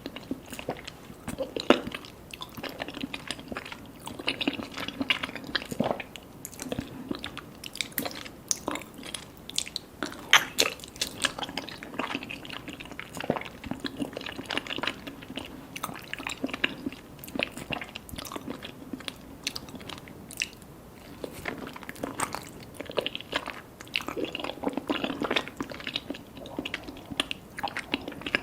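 Close-miked chewing and biting of soft mango mochi with popping boba: wet smacking and squishing, with many irregular sharp clicks and pops throughout.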